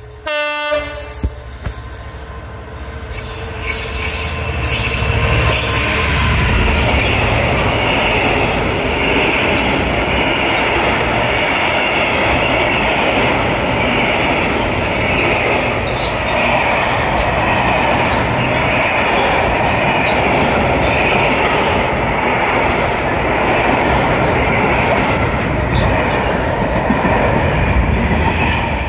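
A train on the main line: a brief horn blast in the first second, then loud, steady wheel-on-rail noise building over the next few seconds and carrying on as the train runs past.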